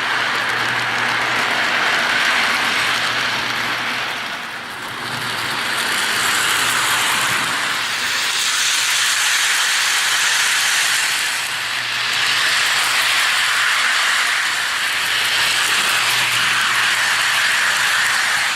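Lionel model train running on its track: a steady whir of motor and wheels with a low electric hum underneath, easing off briefly about every seven seconds.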